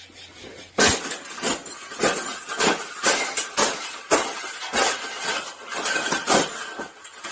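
A series of sharp knocks and clinks, about a dozen at uneven intervals of roughly half a second, with a faint steady high tone behind them.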